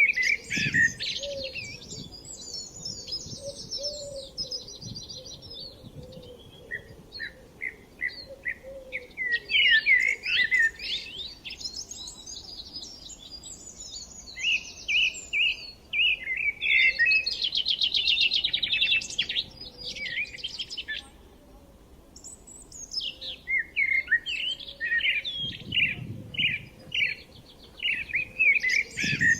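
Songbirds singing: quick runs of chirps and trills, with short lulls between phrases.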